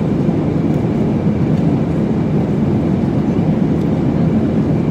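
Steady drone of airplane cabin noise heard from a passenger seat: engine and airflow noise, deep and even, with no change in level.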